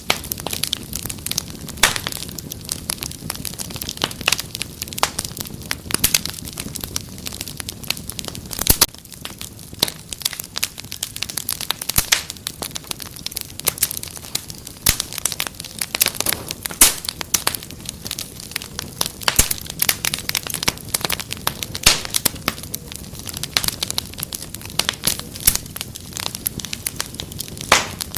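Wood fire crackling and popping steadily, with frequent sharp snaps over a low rumble of the flames.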